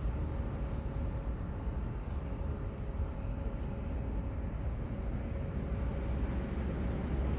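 Distant aircraft engines making a steady low rumble, with a faint steady hum above it.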